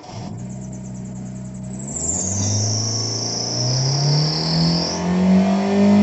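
Hyundai Verna car engine revved up from idle, its pitch climbing steadily from about two seconds in and held high at the end, run up to check that the repaired tachometer responds.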